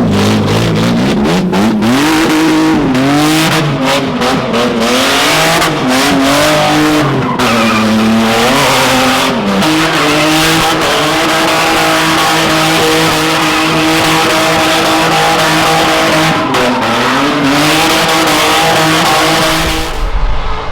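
Drift car engine revving hard and held near the limiter, its revs rising and falling and then held steady with one brief dip, while the tyres squeal and screech through a long slide. The engine and tyres stop abruptly just before the end.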